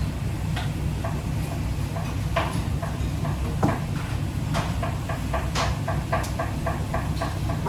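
Light kitchen taps and clicks over a steady low hum. The taps are scattered at first, then settle about halfway through into a quick even run of about four to five a second.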